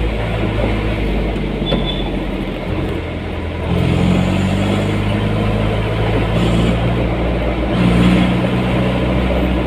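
Motor vehicle engine running while driving, over road noise, with its note rising and getting louder about four seconds in and again near the end.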